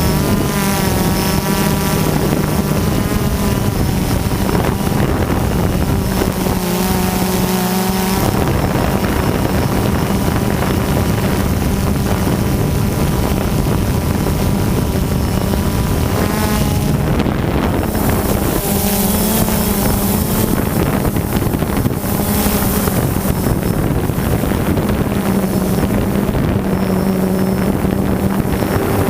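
DJI Phantom quadcopter's electric motors and propellers whirring steadily, the pitch wavering up and down as the motors change speed, heard from the GoPro mounted on the drone, with wind buffeting the microphone.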